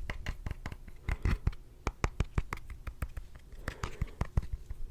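Fingertips tapping close to a sensitive microphone for ASMR: quick, uneven taps, several a second, with a brief soft scratching about four seconds in.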